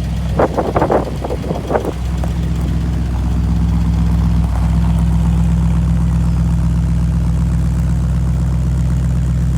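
Old Ford car's engine running steadily, a stack of even low tones, with a few short louder bursts in the first two seconds.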